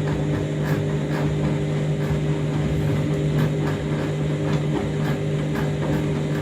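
Washing machine running through its wash on a heavily sudsed, overloaded drum: a steady motor hum with irregular, repeated swishes of water tumbling in the drum.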